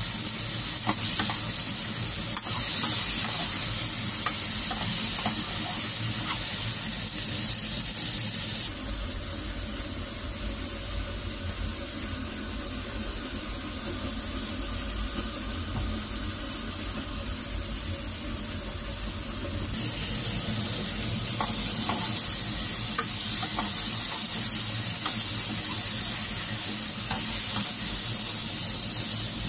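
Sliced hairy gourd sizzling in hot oil in a frying pan while a spatula stirs it, with light scrapes and taps against the pan. About eight seconds in the sizzling gives way to a quieter stretch with a steady hum, and after about ten seconds the sizzling and stirring return.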